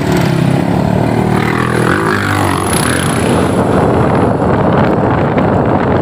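Road traffic with a large truck's engine running close by, its pitch dropping about two seconds in, over continuous road noise.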